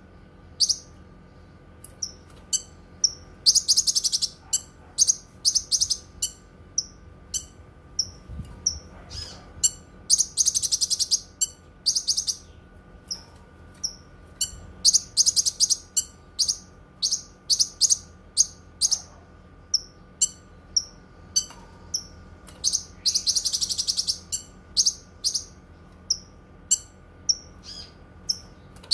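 Cucak kinoi singing: a long series of short, sharp high chirps, several a second, broken by fast rattling trills of a second or two, the loudest about four, ten, fifteen and twenty-three seconds in.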